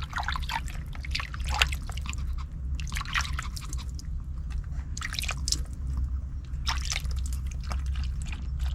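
A dog making wet lapping and chewing sounds as irregular short clicks, over a low steady hum.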